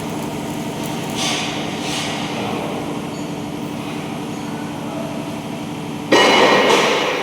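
A machine running with a steady hum. About six seconds in, a sudden loud rush of noise cuts in and fades away over about a second.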